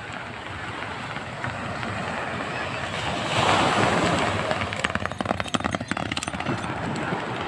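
Wind rushing on the microphone, swelling loudest about three seconds in, then a quick irregular run of sharp knocks for a second or two.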